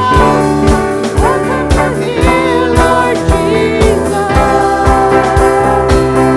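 Worship-band music: sustained keyboard chords over a steady drum beat of about two thumps a second.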